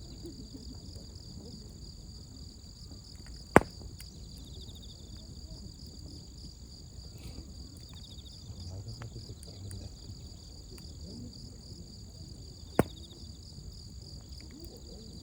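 Wood campfire with two sharp pops, one about three and a half seconds in and a louder-than-background one near the end, over a steady chorus of crickets and other insects.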